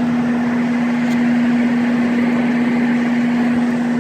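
Old Sharp Comfort Touch 8,500 BTU window air conditioner running, heard from the back of the unit: a steady hum with one constant tone over the rush of its fan.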